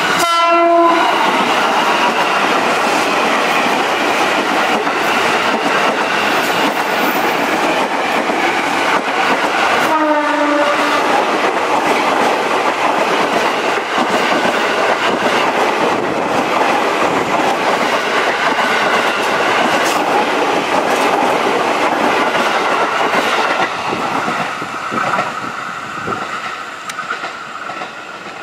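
KRL Commuter Line electric train passing close on a curve: a horn blast at the start and a second, about a second long, roughly ten seconds in, its pitch dropping as the train goes by. Between and after them run the steady rumble and rail clatter of the cars passing, fading away over the last few seconds.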